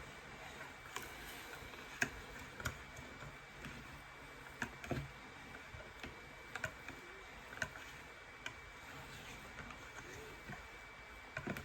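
Wire whisk stirring thick, mud-like soap batter by hand, with light irregular clicks against the side of the mixing container about once a second.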